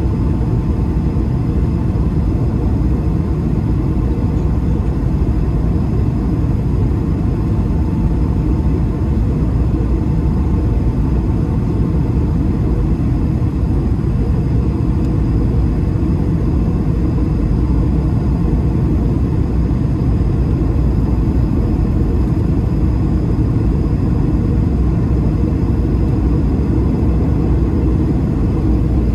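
Steady jet cabin noise inside an Airbus A220-300: a low rumble from its Pratt & Whitney PW1500G geared turbofans and the airflow, with a faint steady whine over it.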